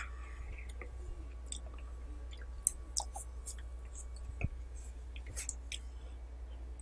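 Close-miked chewing and wet mouth sounds of a person eating curry with rice, with scattered short smacks and clicks over a steady low hum.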